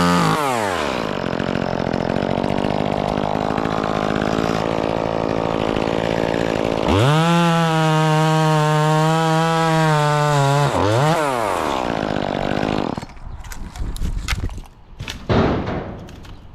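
Gas chainsaw at full throttle, dropping about a second in to a lower, rougher running for several seconds, revving back up to full throttle around seven seconds in for about four seconds, blipping once more, then cutting off around thirteen seconds in. A few knocks and clatters follow near the end.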